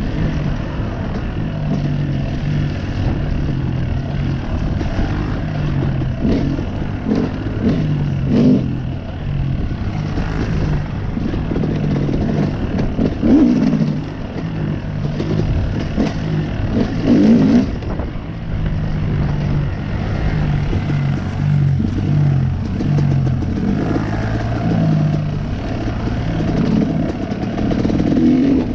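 Honda CRF110 dirt bike's small single-cylinder four-stroke engine running under riding, its pitch stepping up and down again and again as the throttle opens and closes, with a couple of louder rough patches partway through.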